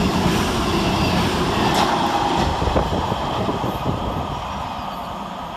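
A coupled pair of CrossCountry diesel multiple units, a Class 220 Voyager and a Class 221 Super Voyager, passing through the station. The engine and wheel noise fades steadily as the train draws away, with a couple of brief knocks from the wheels over the track.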